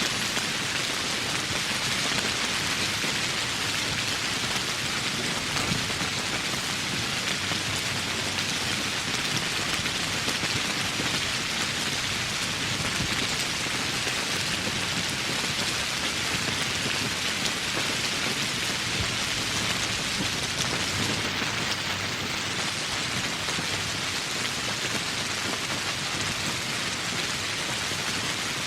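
Steady rain falling: an even, unbroken hiss of many drops, with no lulls or separate strikes.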